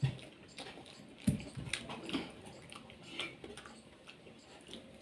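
Close-miked mouth sounds of eating soft, juicy palm fruit (the jelly-like kernels of the toddy palm): scattered wet clicks and smacks of biting and chewing, with a low thump at the start and another about a second in.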